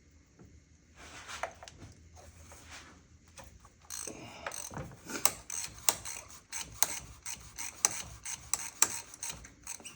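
Ratchet wrench clicking in quick strokes as a tight spark plug is worked loose. Quieter scraping and handling of metal tools comes first, and the clicking starts about four seconds in.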